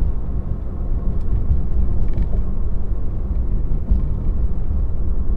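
Steady low road and tyre rumble inside the cabin of a moving Tesla, an electric car with no engine note.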